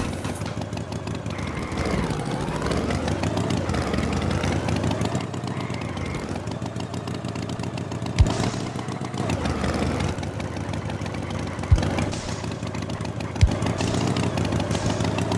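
Cartoon engine sound effect, its pitch wavering up and down, with three short sharp knocks about eight, twelve and thirteen seconds in.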